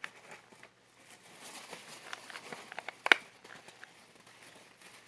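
Scissors snipping and clicking at a tough balloon that won't cut, with faint handling rustles and one sharper snap about three seconds in.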